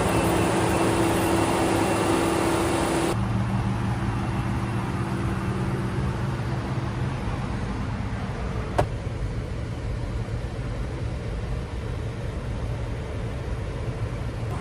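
Ford 5.0 Coyote V8 engine of a 2024 F-150 running. It is louder and higher for about three seconds, then drops to a lower, steady idle. A single sharp click comes about nine seconds in.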